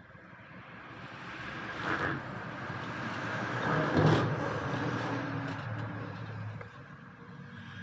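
A road vehicle passing by: engine and tyre noise growing louder to a peak about four seconds in, then fading away.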